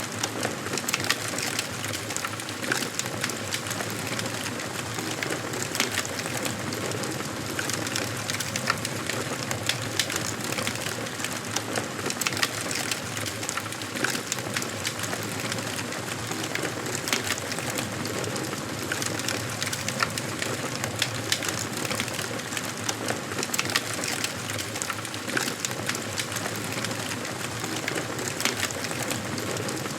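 Wood fire burning in a fireplace, crackling steadily with frequent small sharp pops over a soft hiss.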